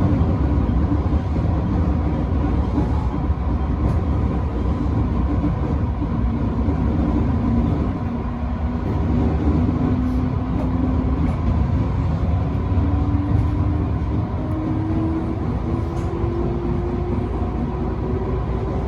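Electric commuter train running along the track, heard from inside the leading car: a steady rumble of wheels and running gear. About six seconds in, a motor whine appears and rises slowly in pitch as the train gathers speed.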